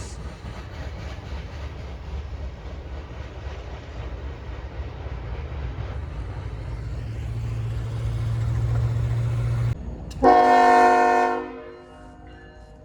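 Freight train rumbling by, with a deep diesel hum that grows louder until it cuts off abruptly. Then a loud blast of a diesel locomotive's multi-chime air horn, about a second long, sounding a chord of several tones before it dies away.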